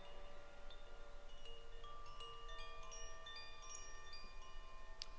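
Chimes ringing softly: many scattered single notes at different pitches, each struck and left to ring on, overlapping one another.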